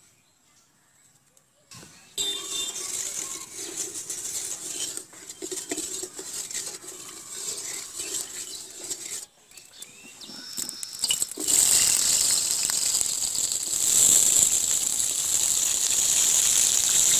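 Hot cooking oil crackling in an aluminium karahi while a wooden spatula stirs it, then, about two-thirds of the way in, a loud steady sizzle as raw potato wedges go into the hot oil to fry.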